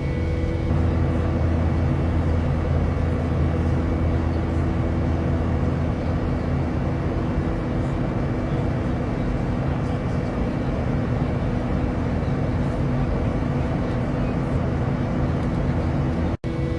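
Steady cabin noise of an Airbus A380 airliner in flight: an even rushing drone from the engines and airflow, with a faint constant hum under it.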